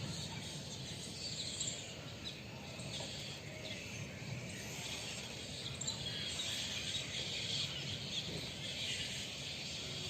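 Outdoor morning ambience with many small birds chirping faintly and steadily, and no single loud call standing out.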